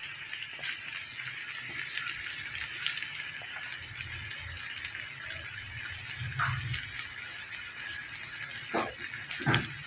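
Okra frying in oil in a metal pot: a steady sizzle with a few faint crackles.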